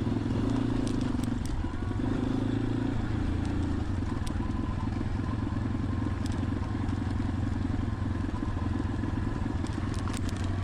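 Motorcycle engine running steadily at low revs, with a few sharp clicks over it.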